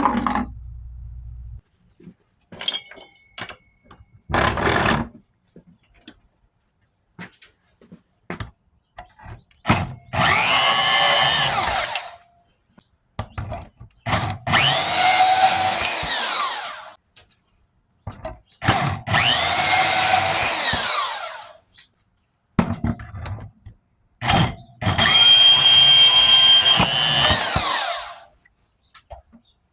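Bandsaw cutting the tips off copper thermostat rods: four cuts of two to three seconds each, with short clinks and knocks from handling the pieces between them.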